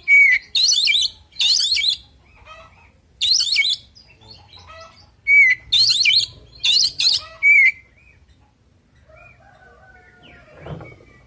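Oriental magpie-robin (kacer) singing: loud, rapid bursts of varied, sweeping whistled phrases, each under a second long, over the first eight seconds, then softer scattered notes. The song is a male's combative full song. Near the end there is a brief low rustle.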